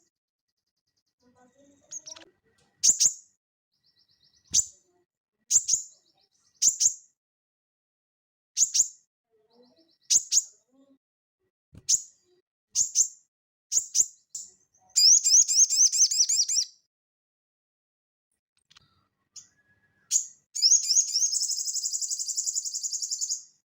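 A sogon songbird singing: sharp, high single chirps about once a second, then a rapid rattling trill of about a second and a half near the middle, and a longer trill of about three seconds near the end.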